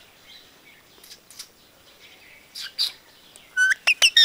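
Pet parrot chirping: a few short, scattered calls, then a quick run of sharp, high calls near the end.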